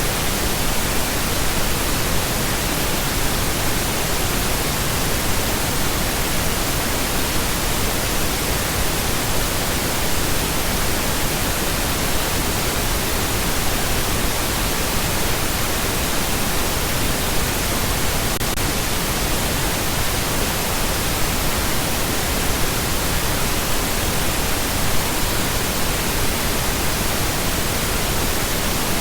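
Steady, loud pink noise: an even hiss spread across all pitches, with no changes or interruptions.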